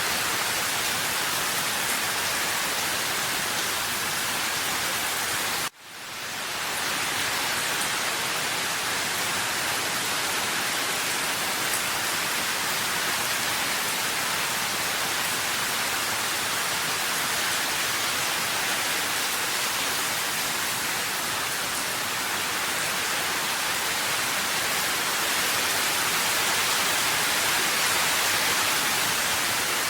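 Steady rain, an even hiss with no single drops standing out. About six seconds in the sound cuts out for a moment and swells back within about a second.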